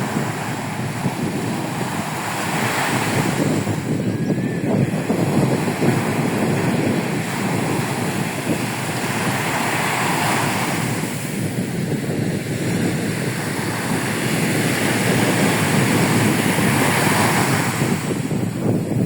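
Rough storm surf breaking and washing on a beach in swells every few seconds, with strong wind buffeting the microphone.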